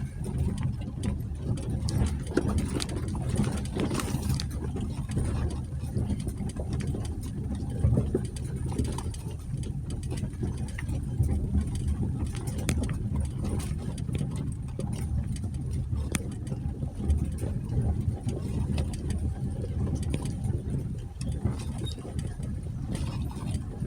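A 2020 Jeep Gladiator's 3.6-litre V6 running at low trail speed, a steady low rumble, with many scattered sharp clicks and crunches from the tyres rolling over a rocky dirt trail.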